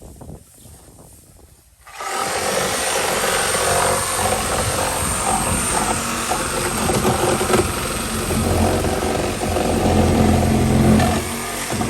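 A loud motorised machine starts running abruptly about two seconds in and keeps going, with a steadier low drone in the last few seconds.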